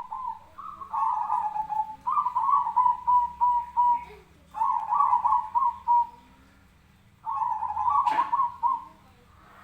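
Zebra dove (perkutut) giving its fighting call: four phrases of rapid, quavering coos with short pauses between them. A sharp click sounds about eight seconds in.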